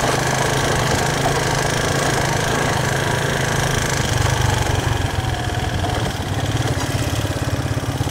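Motorbike engine running steadily at low revs.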